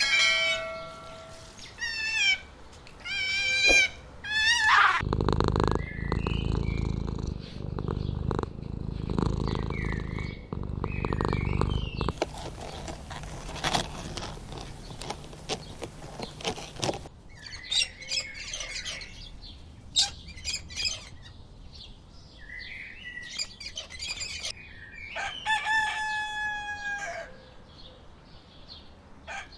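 A run of different animal calls: wavering goat bleats at the start, then a low rumbling stretch with scattered chirps, then bird chatter, and a rooster crowing near the end.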